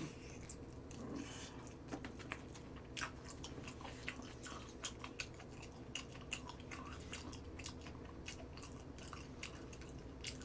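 A person biting and chewing crispy Goobne Gochu Basasak fried chicken, with faint, irregular crunches several times a second.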